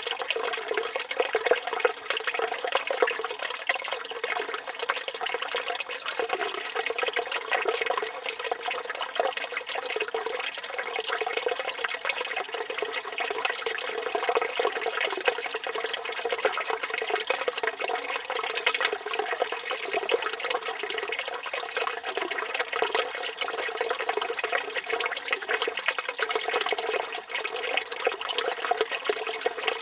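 Village stone fountain (çeşme) running steadily: a stream of water from the spout splashing into the basin, with a dense, unbroken splatter.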